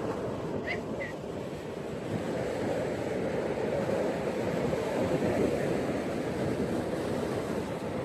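Ocean surf on a beach, a steady continuous wash of waves. Two brief high chirps sound about a second in.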